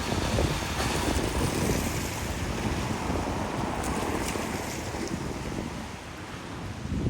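Gale-force storm wind rushing and gusting, buffeting the microphone, easing slightly about six seconds in.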